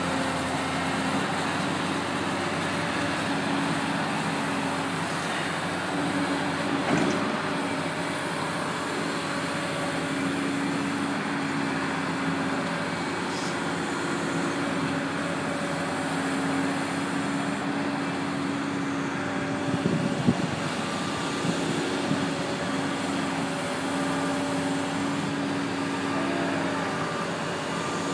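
Diesel engine of a digging machine (backhoe or front loader) running at a steady pitch, with a few short knocks, the loudest about two-thirds of the way through.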